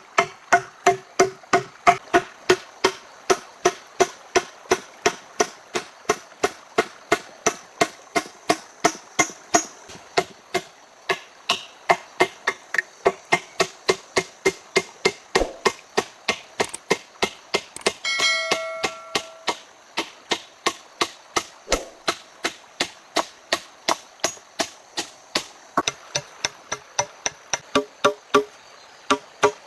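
A hand tool striking over and over in an even rhythm, about three sharp blows a second, like steady hammering or chopping. A short ringing tone sounds about two-thirds of the way through.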